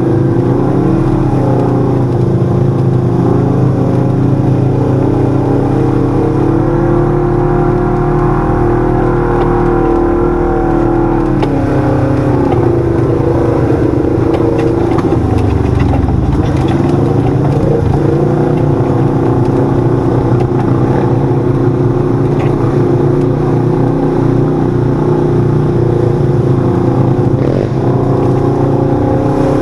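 Side-by-side UTV's 1000 cc engine running under way. Its pitch dips and climbs back up several times as the throttle is let off and reapplied.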